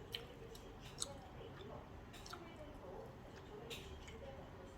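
Quiet eating sounds: chewing, with a few sharp clicks of utensils against a dish, one near the start, one about a second in and one near the end.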